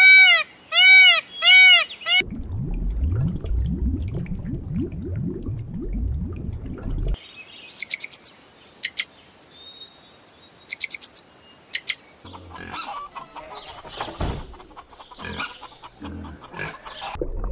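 A peacock gives a quick run of loud, repeated calls, each rising and falling in pitch, for about the first two seconds. A low rumble follows, then a few short, high bird chirps in the middle.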